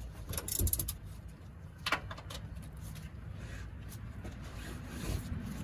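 A few short sharp clicks and knocks, the clearest about half a second in and just before two seconds in, over a low steady rumble.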